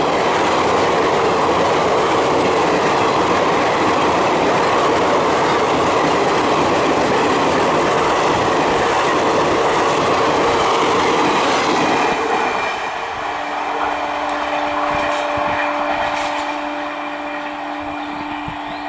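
Express passenger coaches rushing past at high speed behind a WAP-4 electric locomotive, wheels clattering over the rail joints. About twelve seconds in the rush drops away as the end of the train passes, leaving the receding train and a steady hum.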